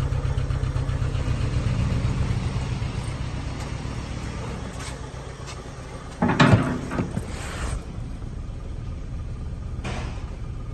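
2014 Chevy Cruze's 1.8-litre four-cylinder engine running at idle with an even pulse, easing off after a few seconds, with a loud brief noise about six seconds in.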